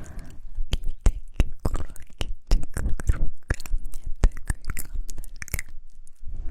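Close-miked ASMR mouth sounds from a girl: an irregular string of sharp clicks and smacks from the lips and tongue, several a second, with a brief pause near the end.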